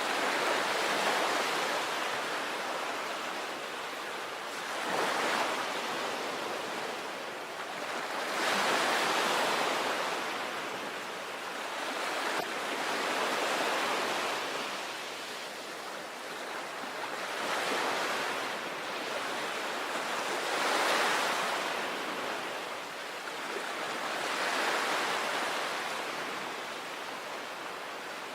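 Sea waves breaking on the shore, a steady wash of surf that swells and recedes every three to four seconds, about seven times.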